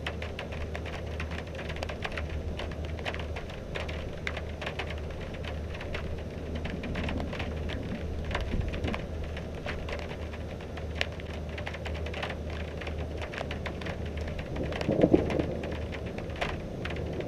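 Rain falling during a thunderstorm, with many heavy drops ticking irregularly on a hard surface close by, over a steady low hum. About fifteen seconds in there is a short, louder burst.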